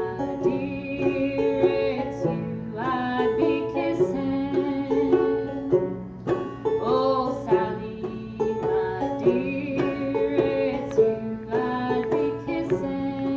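An acoustic band playing a folk tune live, with many quick plucked notes that start sharply and fade.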